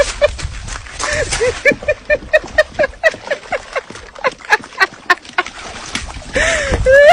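A rapid series of short, pitched animal calls, several a second, with a longer rising call near the end.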